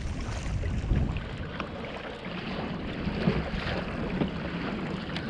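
Wind buffeting the microphone over water splashing and lapping around a kayak on the open sea.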